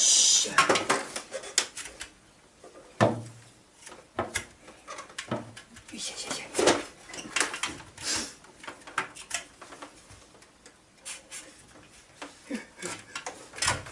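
Irregular knocks, clicks and clatter of tools and hard parts being handled, with a short hiss at the very start.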